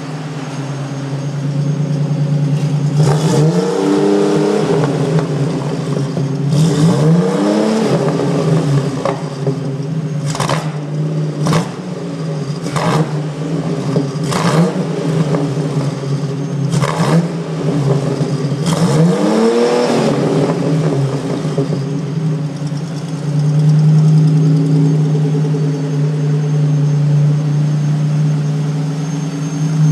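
GM 3.4 L 60-degree V6 with throttle-body fuel injection, fitted to a 1980 MGB, running at idle on a test run. Its revs are raised and let fall three times, about three, seven and nineteen seconds in. Between about ten and seventeen seconds there are several short, sharp noises, and the idle sounds louder from about twenty-three seconds on.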